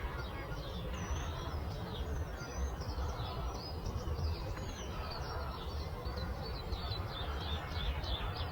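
Several small birds chirping and singing in quick, overlapping phrases, busiest near the end, over a steady low background rumble.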